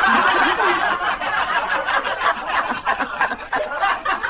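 Laughter from several people at once: a dense, continuous laugh.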